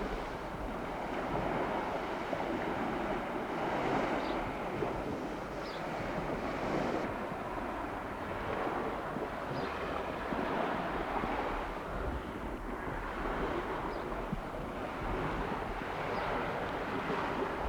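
Wind on the microphone mixed with the rush and slap of water, swelling and easing irregularly.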